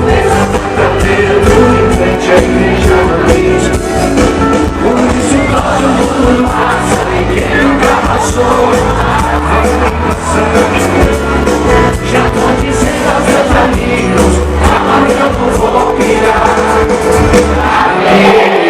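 Live sertanejo pop band playing loudly with a lead vocal singing over a steady bass beat, and a crowd cheering and shouting along.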